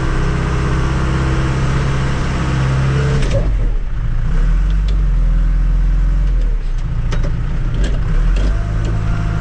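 Diesel engine of a tractor-loader-backhoe running steadily, heard from its seat, its note changing about three seconds in, with a few light clicks later on.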